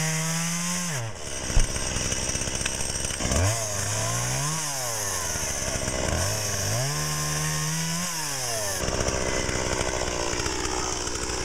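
Chainsaw revving up and dropping back three times, its pitch rising and falling, with a sharp knock about a second and a half in; near the end it settles into a rougher, steady run.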